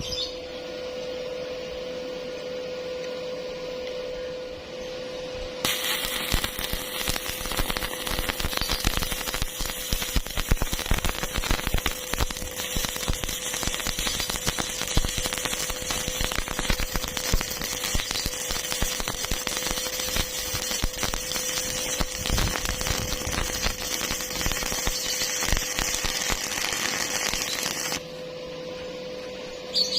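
Electric arc welding: the arc crackles continuously, starting about six seconds in and cutting off abruptly about two seconds before the end, over a steady hum.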